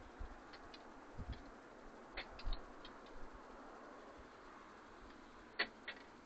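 Birds pecking and hopping at a feeder: a dozen or so irregular sharp taps and clicks, some with a soft low thump, the two loudest near the end.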